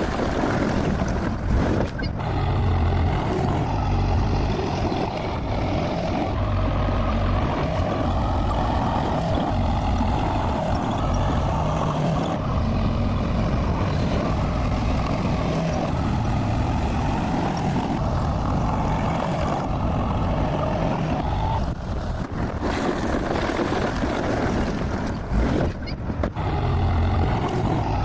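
Bulldozer's diesel engine running steadily while it works, with a few short knocks.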